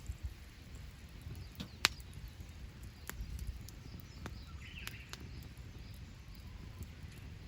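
Wood fire crackling in a campfire stand: scattered sharp pops, the loudest a little under two seconds in, over a low steady rumble.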